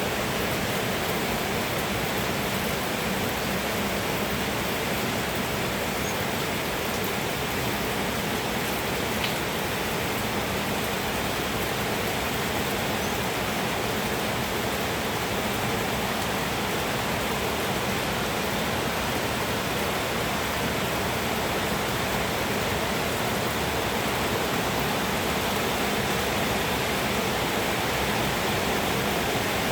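Steady rain pouring down, an even rushing hiss that does not let up.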